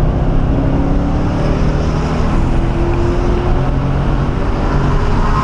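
1997 Mustang SVT Cobra's V8 engine pulling under throttle on a racetrack, its pitch rising steadily through the gear, heard from inside the cabin with road and wind noise.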